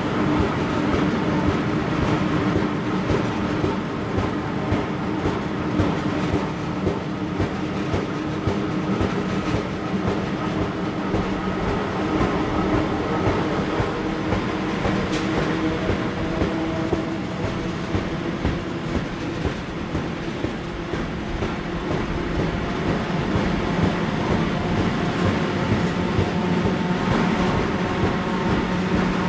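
Heritage passenger train running at speed, heard from an open window at the side of the train: wheels clattering over the rails under a steady rush of running noise, with a continuous hum of several tones.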